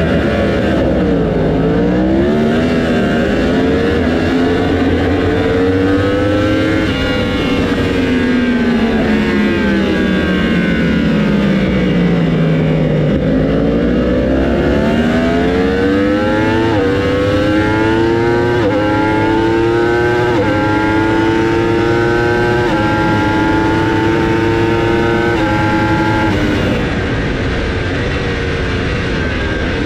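Yamaha racing motorcycle engine, loud, easing off and picking up speed, then accelerating hard through several upshifts. Its pitch climbs and drops sharply at each gear change.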